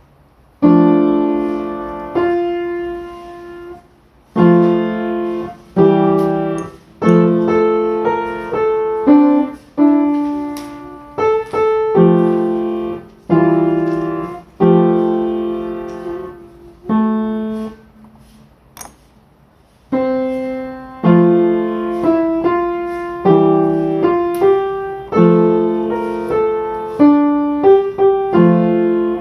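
Slow solo piano music: single chords and notes struck about every second or two, each dying away, with a couple of short pauses.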